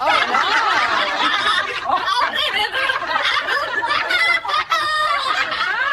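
People laughing hard, with overlapping snickers and chuckles.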